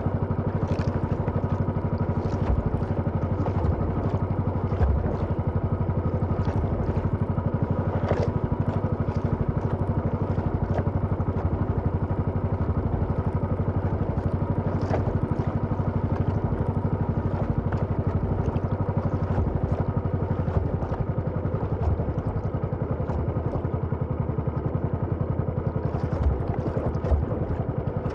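Small boat engine running steadily at a constant speed, with an occasional light click or knock.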